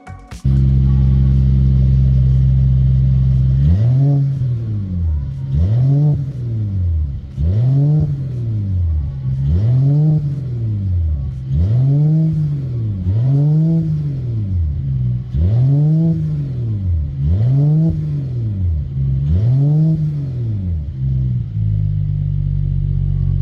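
Mercedes-AMG CLS53's turbocharged 3.0-litre inline-six idling through an exhaust reworked to cut drone, then revved in about nine blips roughly two seconds apart, each rising and falling back, before settling to idle again near the end.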